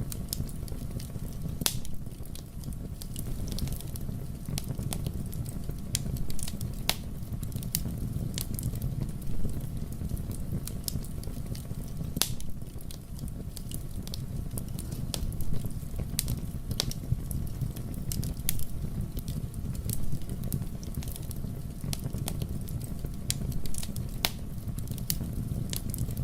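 Fire in a fireplace burning with a steady low rumble and irregular sharp crackles and pops scattered throughout.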